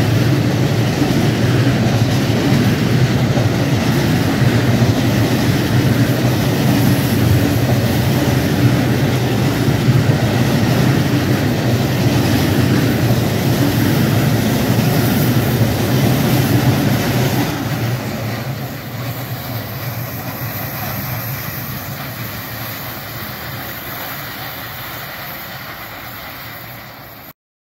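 Train running past close by with a steady heavy rumble, then fading away over the last ten seconds or so as it leaves, before the sound cuts off abruptly near the end.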